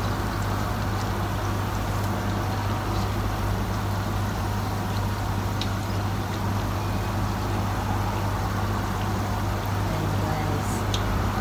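Vegetable pakoras deep-frying in oil in a wok: a steady sizzle with a few small pops, now and then the scrape of a spatula turning them, over a steady low hum.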